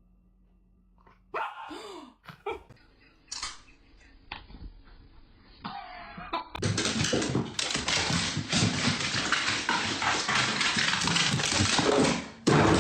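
A dog's cries and barks in a series of short clips, with a loud, noisy stretch full of sharp knocks in the second half.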